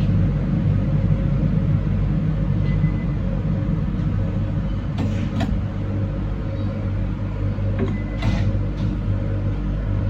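Train running on the line, heard from the cab as a steady low rumble and hum, with a few short clicks about halfway through and again near the end.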